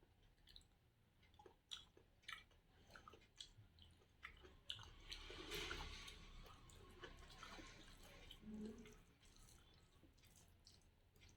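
Faint close-up eating sounds of a person chewing a mouthful of rice and curry: scattered wet mouth clicks and smacks, thickest about halfway through.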